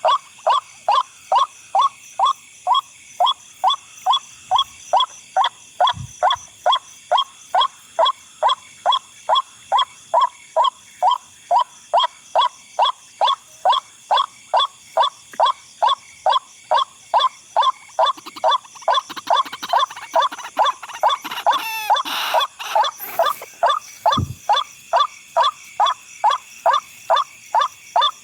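White-breasted waterhen's 'wak-wak' call, loud, even notes repeated steadily at about two to three a second. A brief rustle comes in past the middle, with a dull thump about a fifth of the way in and another near the end.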